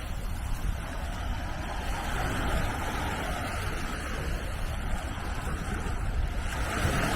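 Small sea waves washing onto the beach, swelling and falling back every few seconds, with wind rumbling on the microphone.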